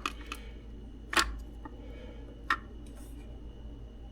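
A handful of sharp small clicks and taps over a steady low hum, the loudest about a second in and another about two and a half seconds in: tools touching a circuit board while a capacitor's solder is being drawn off with solder wick.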